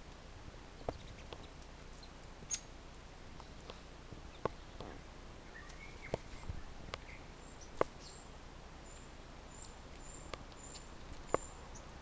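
A small forest bird calling: a run of brief, very high notes, about two a second, through the second half, with a lower chirp around the middle. Sharp clicks sound every second or two.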